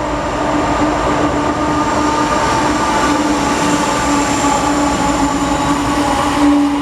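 Freight train loaded with coal passing close by: a loud steady rumble of the wagons rolling on the rails, with a few held ringing tones over it, building up over the first second.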